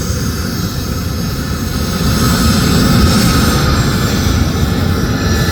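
Private jet's turbine engines running on takeoff: a steady whine over a low rumble that grows louder about two seconds in.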